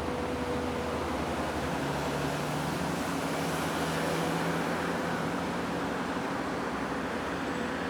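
Steady vehicle running noise: a constant rumble and hiss with faint humming tones that come and go.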